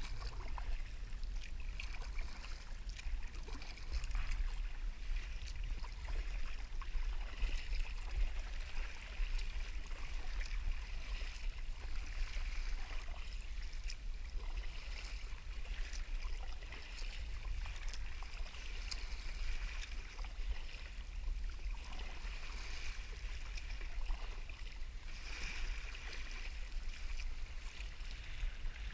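Small waves lapping and trickling against a kayak's hull, a faint steady wash of water with light splashing crackles, over a constant low rumble.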